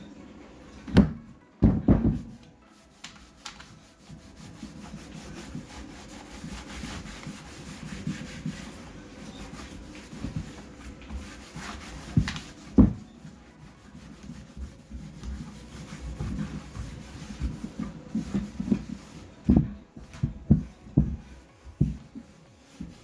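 Hand-work noise on a workbench: steady rubbing and scraping, broken by sharp knocks, two near the start, one midway and a quick run of them near the end.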